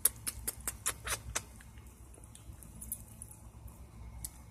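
A dog making a quick, even run of sharp clicks, about five a second, which thins out after about a second and a half into a few scattered ticks.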